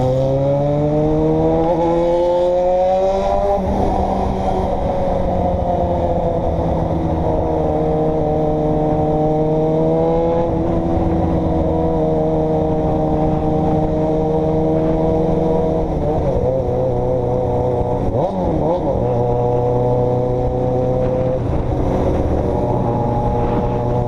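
A motor vehicle's engine running under way. It speeds up for the first few seconds, drops in pitch at an upshift, then holds a fairly steady pitch, with further gear changes about ten and sixteen seconds in.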